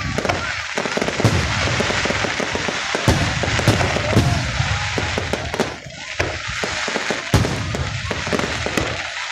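Fireworks going off close by: a dense, continuous crackle with sharp bangs scattered through it, easing briefly about six seconds in.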